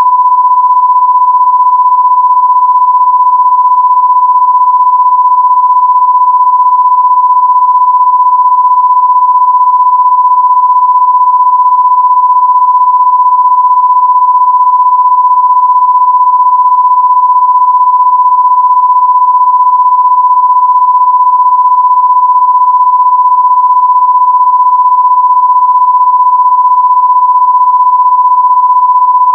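A loud, steady electronic test tone of about 1 kHz, a pure beep-like sine tone held without a break.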